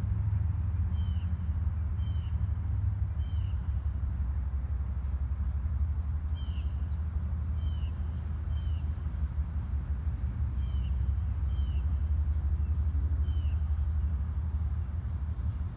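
Short chirps that fall in pitch, repeated in small clusters of two or three, from small birds, over a steady low rumble from a distant diesel locomotive.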